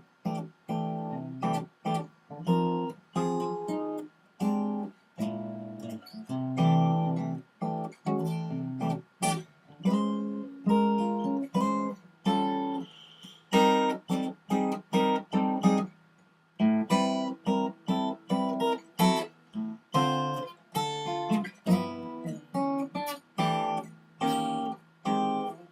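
Guitar playing a jazz chord-melody: a run of plucked chords, each with the melody note on top, with a short pause about two-thirds of the way through.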